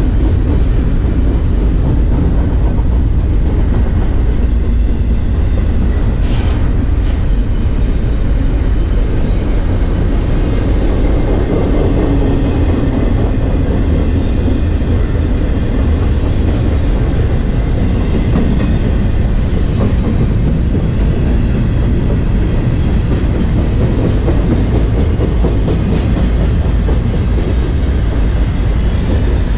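Double-stack intermodal freight train cars rolling past on the rails: a steady, loud rumble of steel wheels on track.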